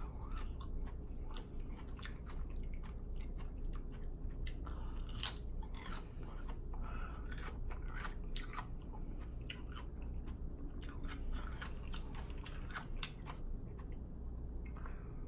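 Close-miked chewing and biting of food, with many small irregular mouth clicks and crunches.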